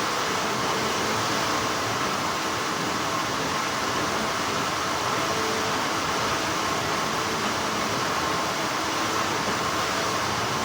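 Continuous hum of textile factory machinery: a steady whirring noise with a few faint steady tones running through it.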